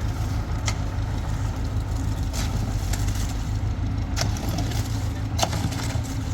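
Engine of the concrete-pouring machinery running steadily with a low, even rumble. Four short sharp knocks come over it at irregular intervals.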